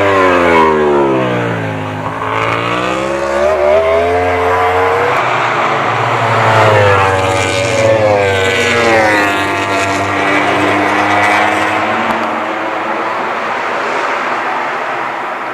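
Yamaha YZR-M1 MotoGP bike's inline-four engine running hard: the pitch drops over the first two seconds, climbs again as it accelerates, drops once more around the middle, then holds and fades near the end.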